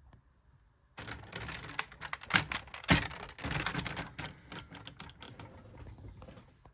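Hard plastic robot-toy parts being handled: a quick run of clicks and rattles, with two louder knocks about two seconds in, then lighter clicking that tapers off near the end.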